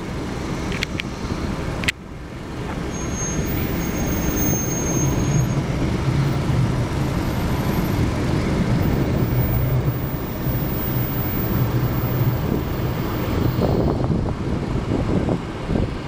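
Jet roar of the low-flying Boeing 747 Shuttle Carrier Aircraft, carrying Space Shuttle Endeavour on its back, as it approaches: a steady roar with a low hum that swells about two seconds in and then holds.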